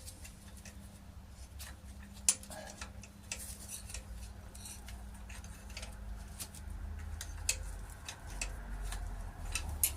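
Scattered light metallic clicks and clinks of a spanner and other hand tools working on the engine's nuts, one sharper clink about two seconds in, over a low rumble.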